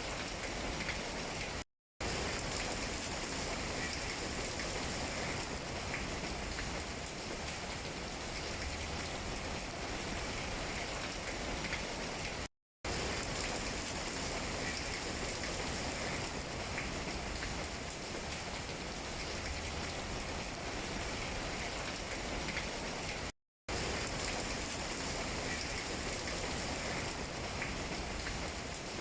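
Steady rain falling on tree leaves, a continuous hiss with scattered light drop ticks. The sound briefly cuts out to silence three times, about eleven seconds apart.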